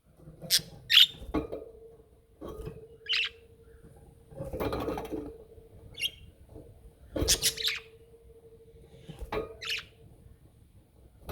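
Budgerigars chirping in short, scattered calls, with a few sharp clicks among them.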